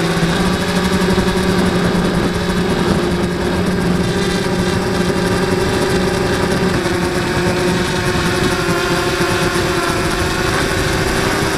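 Blade 200QX quadcopter's motors and propellers whirring in steady flight, a constant pitched hum that shifts slightly lower about seven seconds in.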